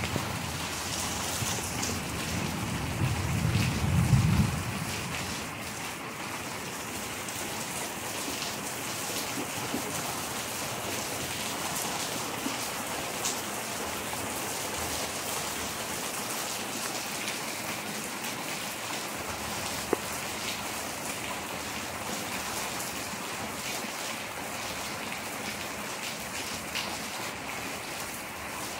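Heavy rain falling on a concrete yard: a steady, even hiss of drops. In the first few seconds a low rumble swells to the loudest point about four seconds in, then dies away.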